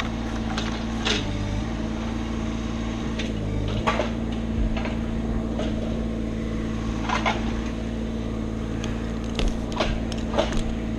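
An engine running steadily at idle, with a few scattered light knocks and clicks.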